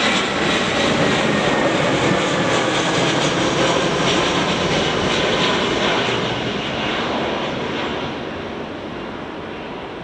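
Jet engines of an Aeroflot Airbus A320 airliner passing close on its landing, a loud steady rush that fades away over the last few seconds.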